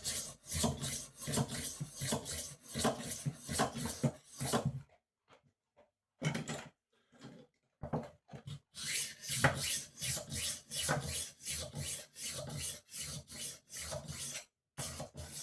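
Rolling knife sharpener worked back and forth along a kitchen knife's edge on its smooth side, a quick rasping rub of repeated strokes. The strokes run for about five seconds, stop for about three seconds apart from one short burst, then start again.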